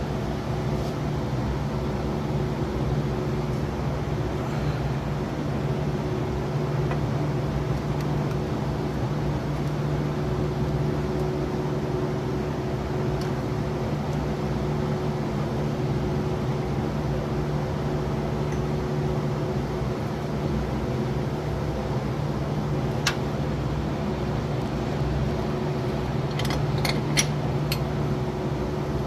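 A steady machine hum with a constant low drone, with one light click about three-quarters of the way through and a quick run of light clicks near the end.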